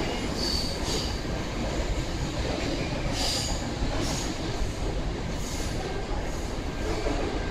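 Freight train's container wagons rolling steadily past, a continuous rumble of wheels on rail, with several short high-pitched squeals.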